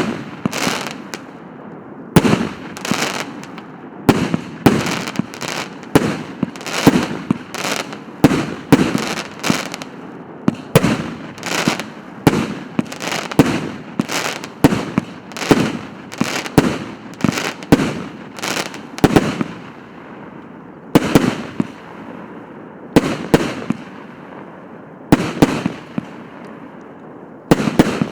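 A 150-shot, 1.2-inch firework battery firing shot after shot, about two sharp bangs a second, each trailing off briefly. In the last third the shots come further apart, in small groups with short gaps between them.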